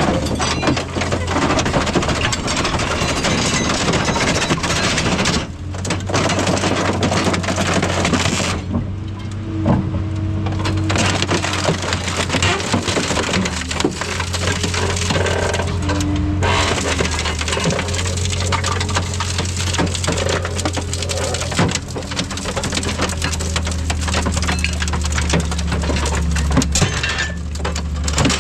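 Heavy scrap-handling machinery: a steady low engine hum under continuous crunching and crackling of scrap metal being crushed or handled. The crunching breaks off briefly a few seconds in, and again for a couple of seconds around a third of the way through.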